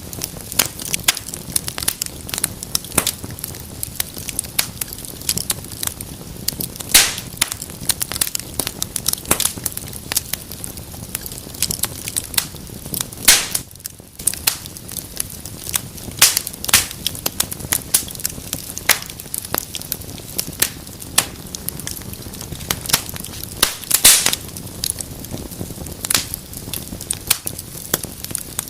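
Wood fire burning in a fireplace, crackling continuously over a soft hiss, with frequent sharp pops; a few louder snaps stand out, one at about 13 seconds and another near 24 seconds.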